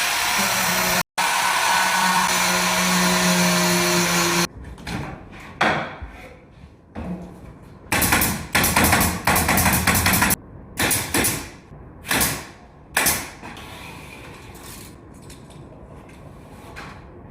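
A power tool runs steadily for the first few seconds. After a sudden break it gives way to a string of sharp, irregular knocks like hammer strikes, coming thick for a couple of seconds in the middle and then spacing out.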